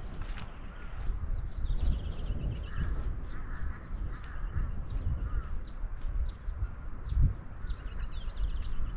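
Many small birds chirping and twittering over a low rumble.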